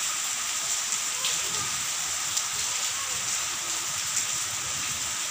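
Steady rain falling, an even hiss with a few sharper drop ticks close by.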